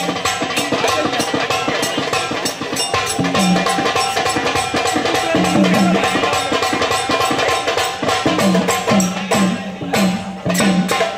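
Instrumental folk music: fast, dense hand-drum percussion with recurring deep pitched drum strokes, over a steady held tone.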